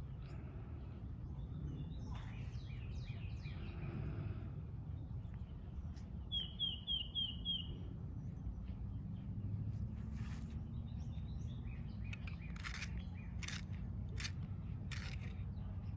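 A small bird chirping, loudest in a quick run of about five chirps midway, over a steady low rumble of outdoor background noise. Several short scratchy strokes of coloring on paper come in the second half.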